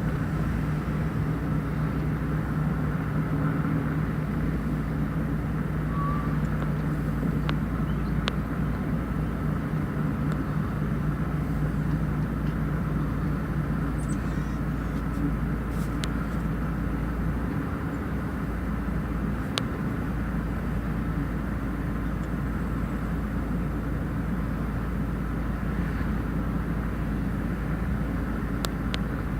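A steady engine rumble with a droning hum, and a few faint clicks.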